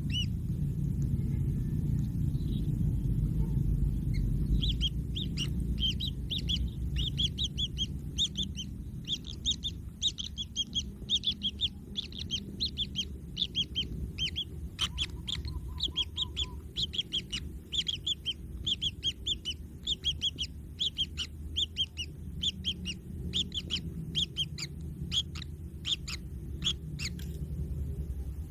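Kingfisher chicks calling with rapid series of short, high chirps, over a steady low rumble.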